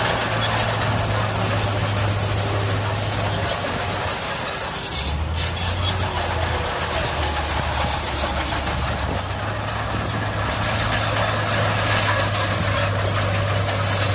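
Heavy diesel earthmoving machinery running under load, its engine note dropping to a lower pitch about five seconds in, with scattered high-pitched metallic squeals over a steady mechanical clatter.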